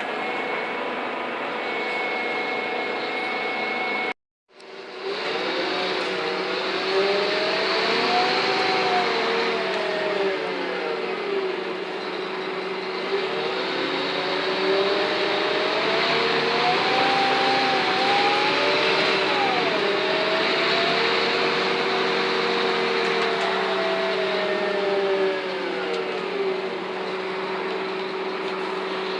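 Scania N230UD double-deck bus engine labouring hard uphill with its whining 'hoover' thrash. The revs rise and fall several times over a steady whine, and the sound cuts out briefly about four seconds in.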